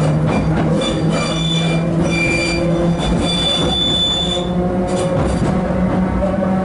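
Interior of a converted 1938 London Underground tube-stock carriage on the move: a steady low hum over the rumble of wheels on rails. A high-pitched wheel squeal comes in about a second in and fades out after about four and a half seconds.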